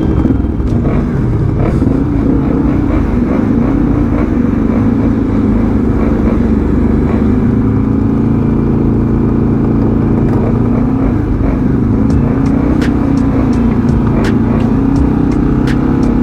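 Four-stroke single-cylinder dirt bike engine running as it is ridden, its pitch rising and falling repeatedly as the throttle is opened and closed.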